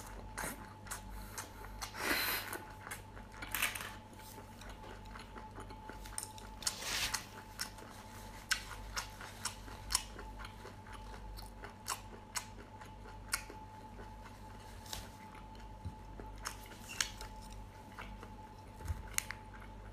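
A person chewing and biting into steamed shellfish, with many small sharp clicks and smacks scattered throughout, over a faint steady hum.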